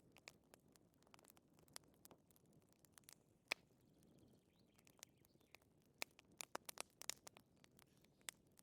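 Wood fire crackling: irregular sharp pops and snaps, a busier cluster of them about six to seven seconds in, over a faint low hiss of the burning.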